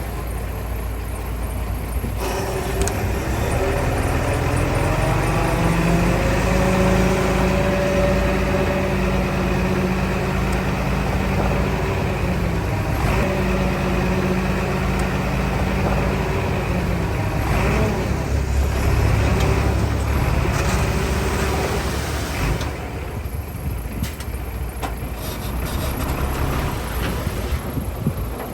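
Heavy diesel engine of earthmoving machinery running under load, its pitch rising and falling as the engine speeds up and slows.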